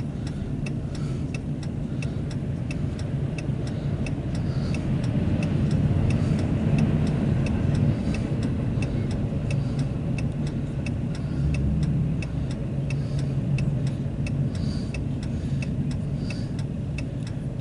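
Empty autorack freight cars rolling past on the track, a steady low rumble of wheels on rail, with a regular ticking running through it.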